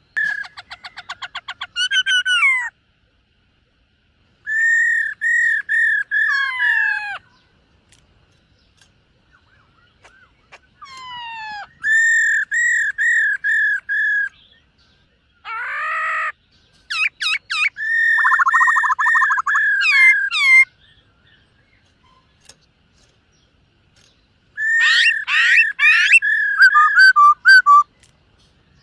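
Black-throated laughingthrush singing: loud whistled phrases of rapidly repeated notes with downward-slurred calls, in bursts of a few seconds separated by short pauses.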